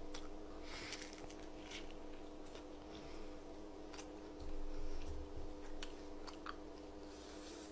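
A person biting and chewing crispy fried chicken close to the microphone, with scattered small crunches and clicks over a steady low hum.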